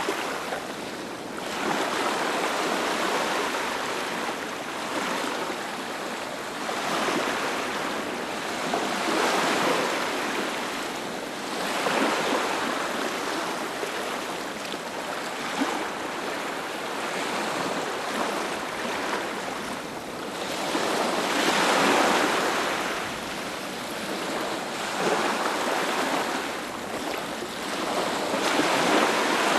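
Ocean waves breaking and washing onto a beach, the surf swelling and easing every few seconds.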